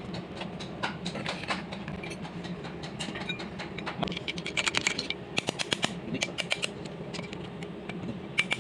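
Hand tools clicking and tapping on metal during work on a tractor's front wheel hub, with two quick runs of rapid clicks about halfway through, over a steady low hum.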